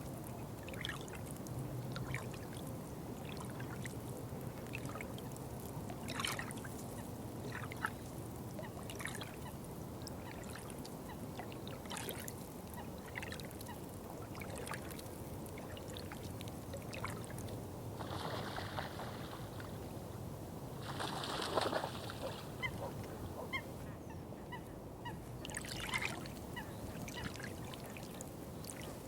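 Water trickling and dribbling steadily with many small splashy ticks. Two louder, short, noisy sounds come about three seconds apart in the latter part; they may be bird calls.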